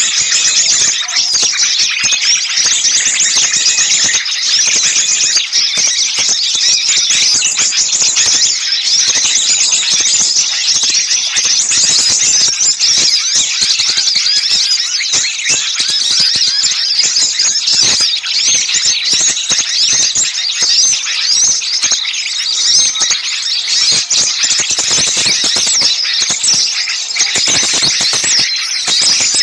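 Dense chorus of many small songbirds calling at once: rapid, high-pitched chirps, squeaks and twitters crowding over one another without a break. It is an agitated, noisy 'ribut' mixed-species chorus of the kind played as a lure to draw small birds in.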